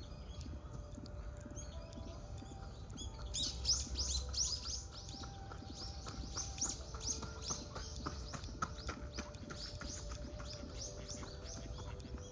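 Small bird chirping: a rapid run of short, high, falling notes that starts about three seconds in and thins out near the end, over a low steady rumble.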